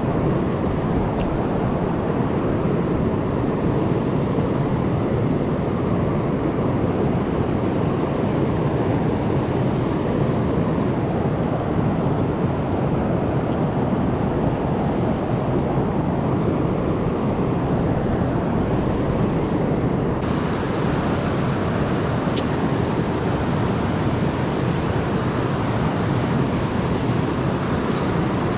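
Creek water rushing steadily, a loud even noise with no break.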